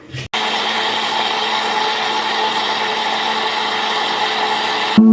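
Electric kitchen blender running steadily, blending corn cake batter a second time to break up undissolved lumps of baking powder. It starts about a third of a second in and stops abruptly near the end.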